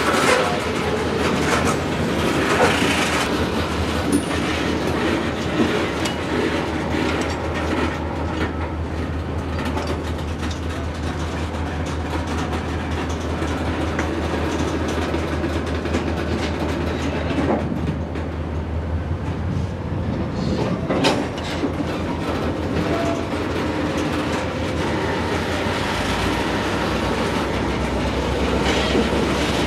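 Freight train moving slowly while switching cars, with wheels clicking over rail joints and occasional sharper knocks, over the steady hum of a diesel locomotive's engine. The engine note shifts lower near the end.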